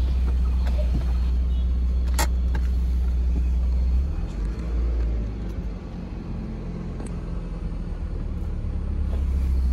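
2006 Honda Civic's 1.8-litre four-cylinder i-VTEC engine idling, a steady low hum heard from inside the cabin, with one sharp click about two seconds in. The hum grows fainter and less steady about halfway through.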